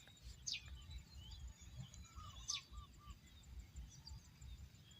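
Faint birdsong: a few quick downward-sweeping chirps and a short run of four repeated notes in the middle, over a low steady rumble.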